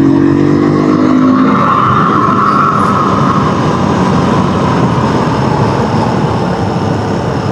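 Honda XR150 dirt bike's small single-cylinder engine running under way, its note falling slightly over the first second and a half and then sitting under a steady rushing noise of riding.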